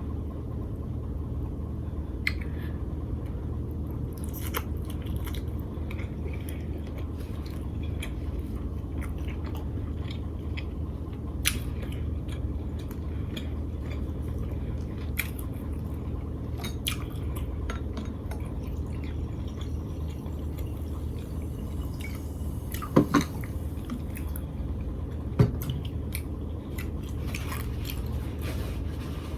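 A person chewing and smacking on lobster tail meat in butter sauce, close up, with scattered wet mouth clicks and two louder sharp clicks in the last quarter, over a steady low hum.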